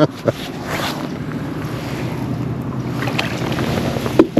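Steady wind buffeting the microphone over open water, with a rushing, even noise and water lapping against a kayak. A brief voice-like cry comes near the end.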